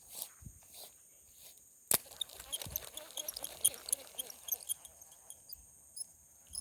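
One sharp click, then a few seconds of small scattered ticks and crackles, over a steady high-pitched hiss.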